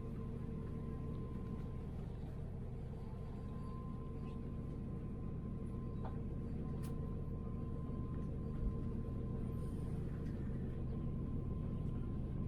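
A passenger train running, heard from inside the carriage: a steady low rumble with a constant hum and a higher whine over it. There is a single dull thump about two-thirds of the way through.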